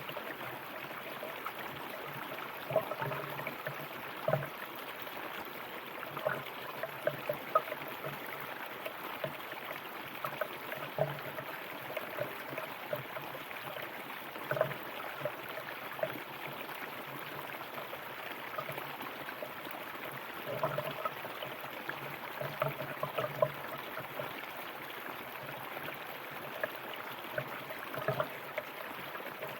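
River water flowing: a steady rush with frequent short gurgles and bubbling spots.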